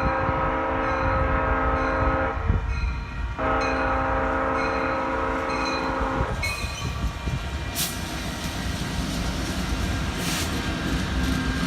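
Locomotive air horn sounding two long chord blasts, the second ending about six seconds in. The train's steady rumble follows, with wind buffeting the microphone.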